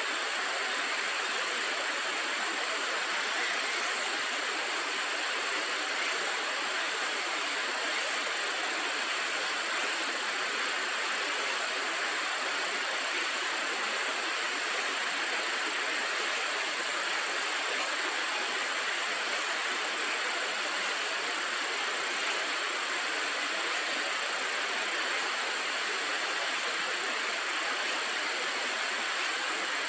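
River water rushing steadily, an unbroken wash of noise.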